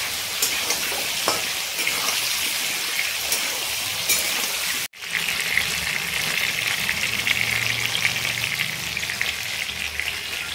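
Cut potatoes frying in hot oil in a pan: a steady sizzle, with occasional clicks from stirring. The sound cuts out for an instant about halfway through.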